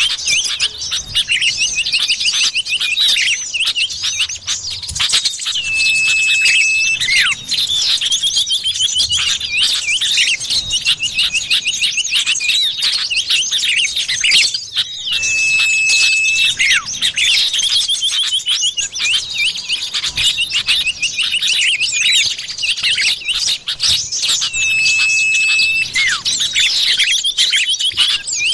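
Common iora (cipoh) calls used as a bird-trapping lure: busy, fast chirps and trills, broken about every ten seconds by one long, level whistle.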